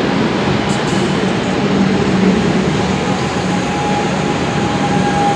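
Melbourne Metro electric suburban train moving past the platform: a steady rumble of wheels on rails with a low hum running under it.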